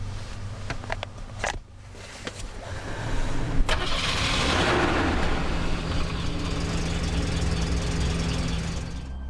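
Car engine starting: a sharp click about three and a half seconds in, a surge as it catches, then a steady idle. A few sharp clicks and knocks come in the first second and a half.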